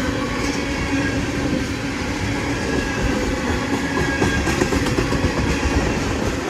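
Freight train rolling past, a steady rumble of wheels on rail with many small rapid clanks throughout.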